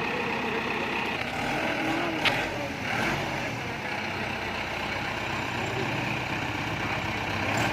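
Tractor diesel engine running steadily, with a sharp click about two seconds in.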